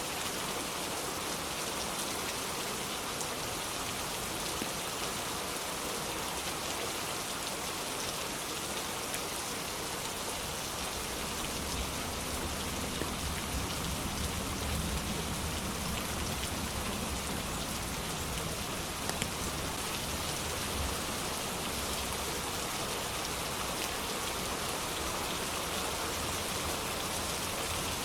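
Steady, dense rain falling. A low rumble of thunder swells and fades about halfway through.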